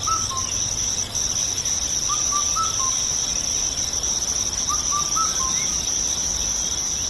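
Steady high chirring of crickets, with three brief phrases of bird chirps over it.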